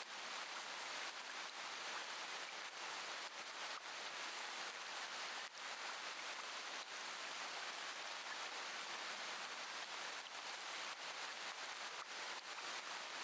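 Steady rain falling: an even, continuous hiss with faint drop patters, and no thunder.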